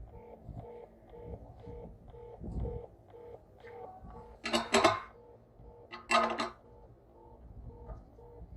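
Electronic beeping: short tones at two pitches repeating a few times a second, with two loud noisy bursts of handling or scraping about halfway through.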